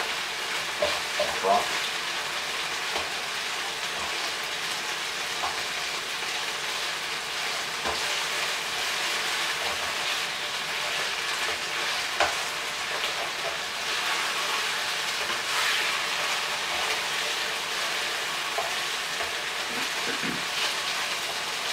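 Chicken pieces sizzling steadily as they stir-fry in a hot pan over a gas flame, with a utensil now and then scraping and knocking against the pan as they are turned.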